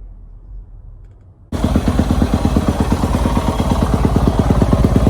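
Yamaha YZ250F dirt bike's single-cylinder four-stroke engine running, a loud, rapid, even pulsing that cuts in suddenly about a second and a half in.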